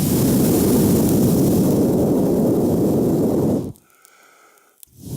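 One long, steady breath blown into a faltering campfire of damp wood to revive the embers, the air rushing loudly on the microphone. It stops abruptly about three and a half seconds in.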